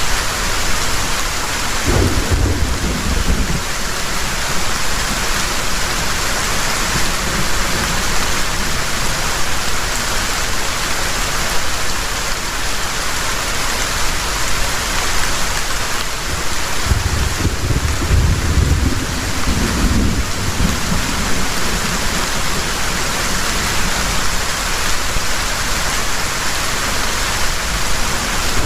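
Heavy rain pouring down in a steady dense hiss, with thunder rumbling low twice: a short roll about two seconds in and a longer one past the middle.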